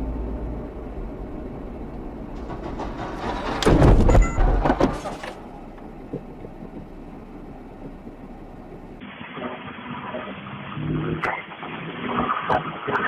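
Motor vehicle engine and road noise, with a loud, harsh burst about four seconds in. The sound changes abruptly about nine seconds in to thinner noise with scattered knocks and rattles.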